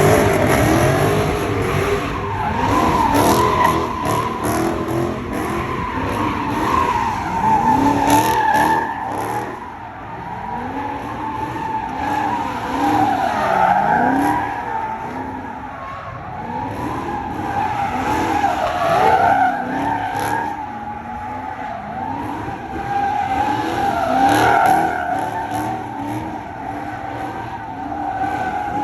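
Car doing doughnuts: tires squealing continuously with a wavering pitch, while the engine revs up and down beneath.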